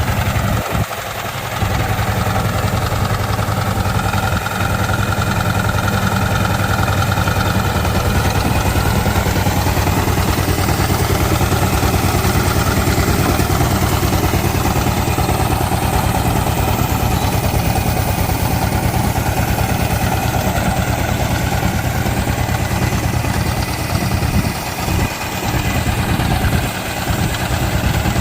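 Diesel engine running at a steady idle with an even, regular beat, after catching on a start attempt. It dips briefly about a second in, then settles.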